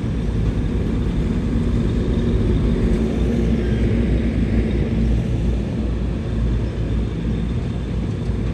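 Heavy diesel engine of earthmoving equipment running steadily under load, a constant low drone with no breaks.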